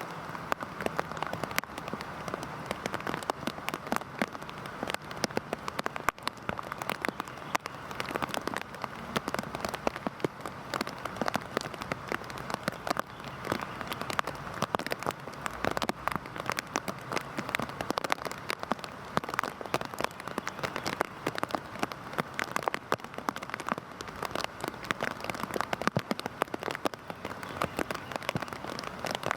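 Heavy rain falling steadily onto a surface, a dense patter of countless drops.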